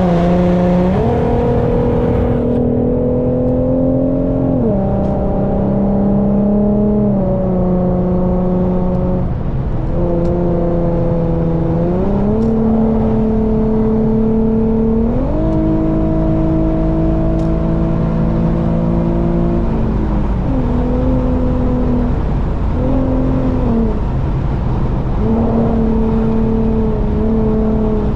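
Infiniti sedan's engine heard from inside the car at highway speed, its hum climbing slowly and then dropping in steps several times as the revs change, over a steady rumble of road noise.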